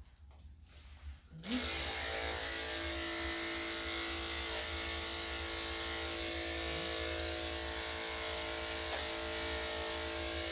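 Electric dog grooming clippers with a #7 blade switched on about one and a half seconds in, then running with a steady hum.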